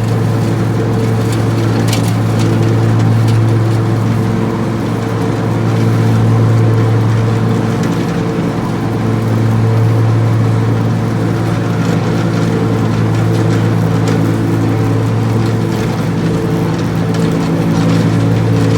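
Engine of a Spartan zero-turn riding lawn mower running steadily at mowing speed, a constant deep hum that swells and eases slightly in level.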